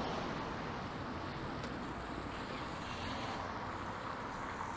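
City street traffic on a wet road: a steady hiss of car tyres and engines passing, easing off a little at the start.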